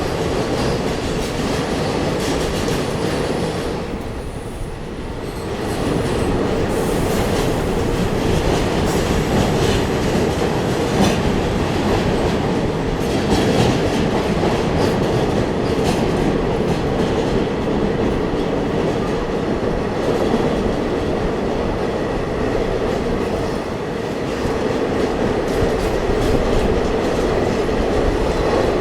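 Diesel multiple unit train running, heard on board: a steady noise of wheels on rails and the running train, with a brief dip in loudness about four to six seconds in.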